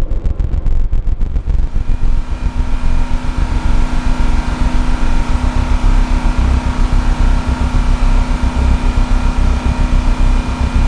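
Twin Detroit Diesel two-stroke engines of a large standby generator, each supercharged and turbocharged, running with a heavy, fluttering rumble. About two seconds in, a steady whine joins the rumble and holds.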